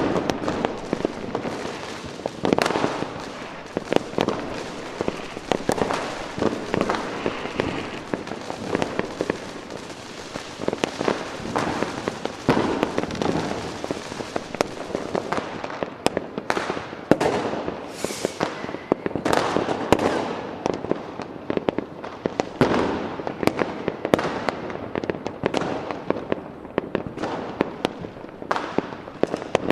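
Fireworks going off: a dense run of bangs and crackling, then in the second half separate loud bangs several times a second, each trailing off.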